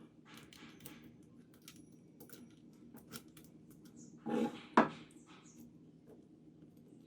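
Small hard objects, likely metal, being handled: scattered clicks and clinks, with a louder clatter about four seconds in that ends in one sharp click.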